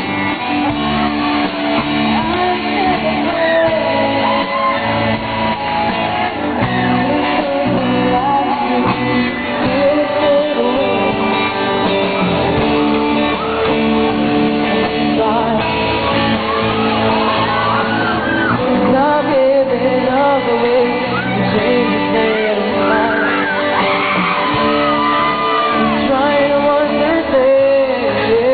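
Live rock band playing in a large hall: a male vocalist singing over guitars, with shouting.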